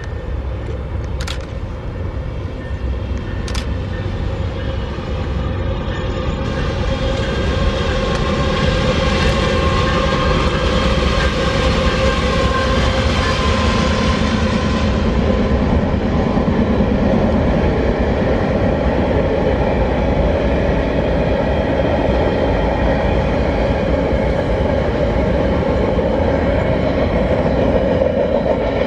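Freight train passing: the rumble builds over the first several seconds, then the wagons roll by with a steady rumble and clatter.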